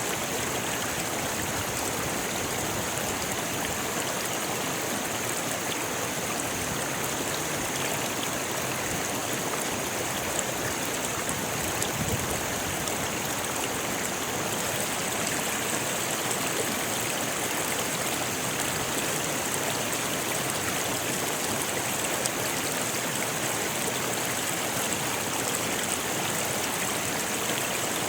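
Rocky river rushing steadily over stones, an even, unbroken water noise.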